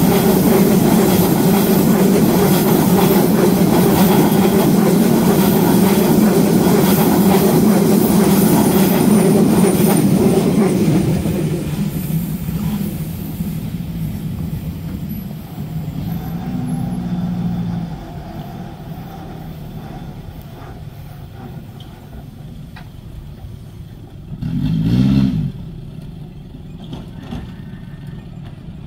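Passenger train running past on the rails, a loud steady rumble and clatter that fades about eleven seconds in. Near the end, a short pitched sound about a second long stands out over quieter surroundings.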